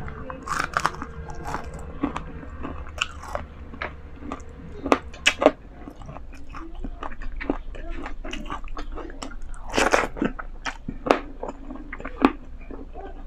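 A person chewing a mouthful of pancit chami noodles eaten by hand: irregular wet mouth clicks and smacks, with a few louder ones about five and ten seconds in.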